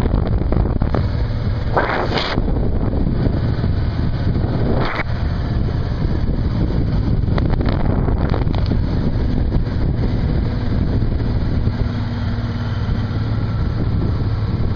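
Platte River water rushing steadily, with wind buffeting the microphone and a couple of louder gusts.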